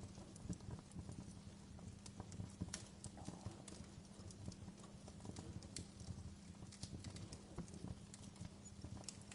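Wood fire crackling in a fireplace: frequent, irregular pops and snaps over a steady low rumble.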